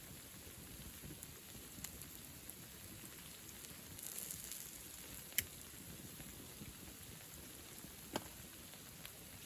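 Wood bonfire burning: a faint steady hiss with scattered small crackles, and two sharper pops about five and eight seconds in.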